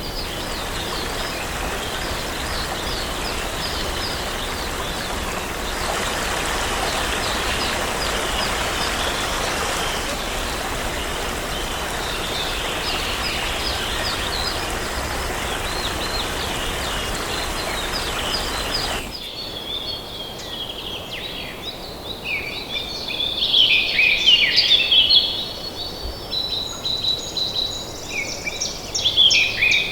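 Steady rush of flowing water with small birds chirping over it. About two-thirds of the way through the water sound cuts off abruptly, and clearer, louder songbird song takes over, loudest in two bouts near the end.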